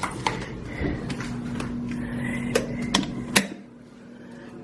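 A key card being tried in a hotel door lock: several sharp clicks and clacks from the lock and handle, the loudest about three and a half seconds in. A steady low hum runs underneath and drops away after that last click.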